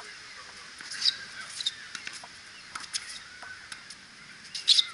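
Short, sharp bird chirps, the loudest about a second in and near the end, over scattered faint clicks and taps from a tennis rally on an outdoor hard court.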